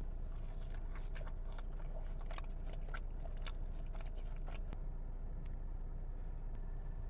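A person eating: biting and chewing, with a quick run of crisp, wet mouth clicks for the first few seconds that then thins out, over a steady low background hum.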